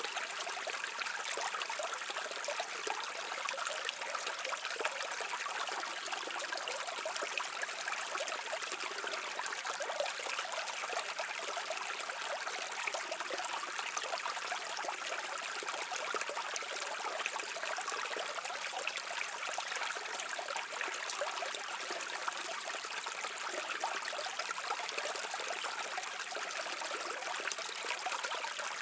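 Brook water running and babbling steadily, a light splashing trickle with little deep rumble.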